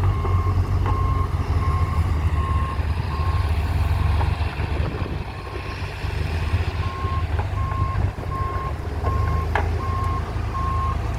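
John Deere log skidder's diesel engine running under load while its backup alarm beeps steadily, about two to three beeps a second, as the machine reverses. The beeping stops for a few seconds midway, then starts again.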